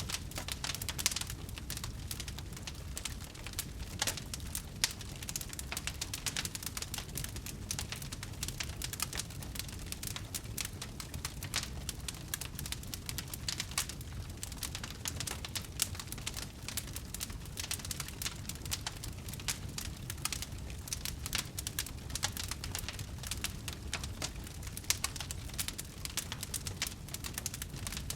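Wood fire burning with dense, irregular crackles and pops over a low steady rumble.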